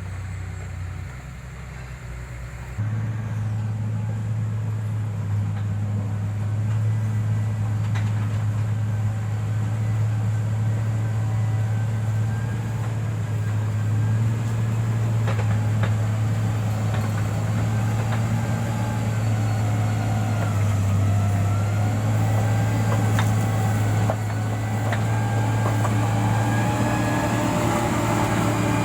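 Motor grader's diesel engine running steadily, growing louder about three seconds in as it works. Rattling, clicks and a faint wavering whine come over the engine.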